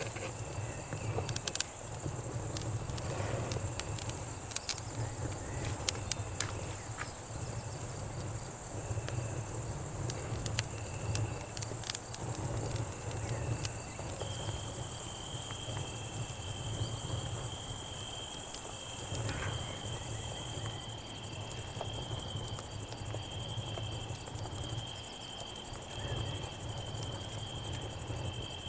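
Night insects: a steady high-pitched cicada drone and a cricket trill that holds one steady note from about halfway through. Under them a campfire crackles with scattered small snaps, most of them in the first half.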